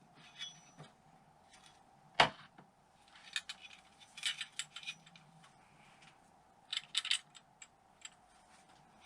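Small metal engine parts and hand tools clinking and clicking on a workbench during engine disassembly, with one sharp knock about two seconds in and bursts of light clinks later.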